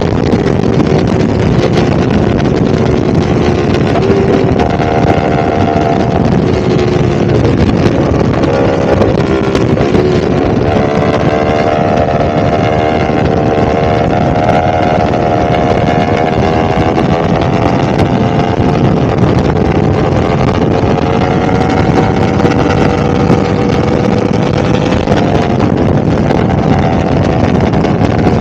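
Yamaha R1's crossplane inline-four engine running at fairly steady revs, with wind noise on the microphone. The engine note dips about eight seconds in and climbs back, then holds steady.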